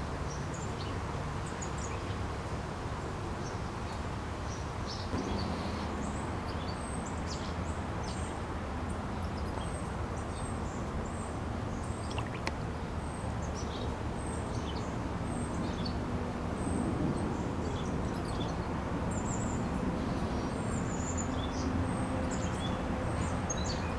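Small birds chirping and tweeting in short, high calls scattered throughout, over a steady low background hum.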